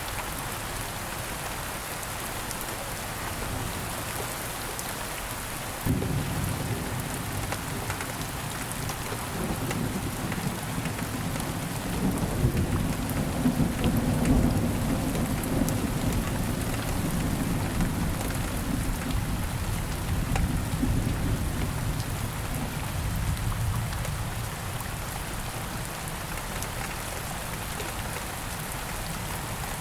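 Steady rain falling, with a roll of thunder that starts suddenly about six seconds in, swells to its loudest midway and rumbles away over the next ten seconds.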